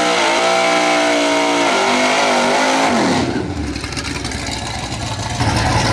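Drag car engine revving hard and holding high revs, its pitch dipping and climbing again, then falling away sharply about three seconds in. A loud rush of noise returns near the end.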